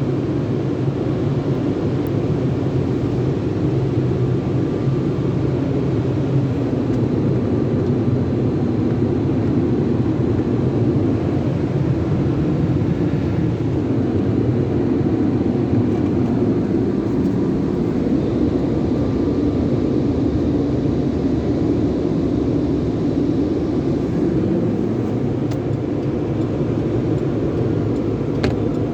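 Sonny's conveyor car wash tunnel equipment running with a steady, even rumble.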